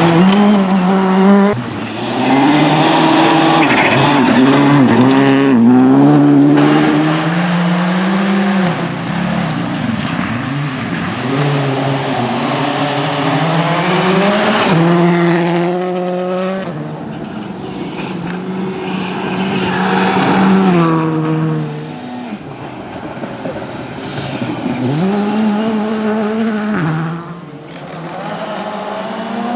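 Rally cars passing at racing speed one after another, engines revving hard and rising in pitch, then dropping at gear changes and lifts. The sound changes abruptly several times as one car gives way to the next.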